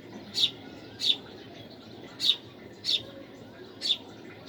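A small bird chirping: five short, high chirps spaced roughly a second apart, over a faint steady background hiss.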